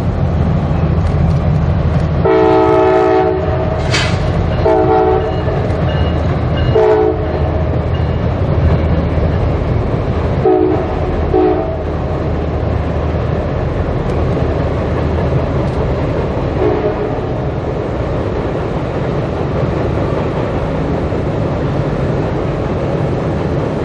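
Diesel freight locomotives running past with a steady low engine drone while the air horn sounds several blasts in the first half, one longer blast followed by shorter ones.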